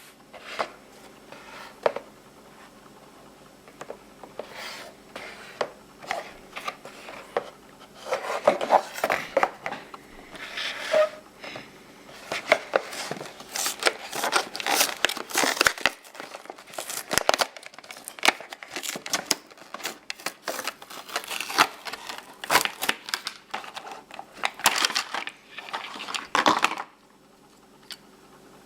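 Toy packaging being opened: plastic crinkling and tearing in irregular bursts of crackling and rustling, stopping abruptly near the end.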